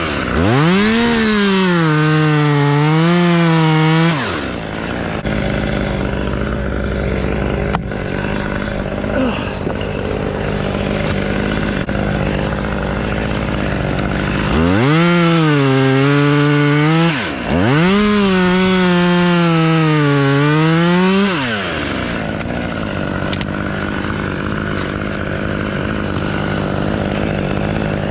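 Two-stroke chainsaw cutting wood: three spells at full revs, the pitch sagging and recovering as the chain bites, with the saw dropping back to a lower steady running speed between cuts.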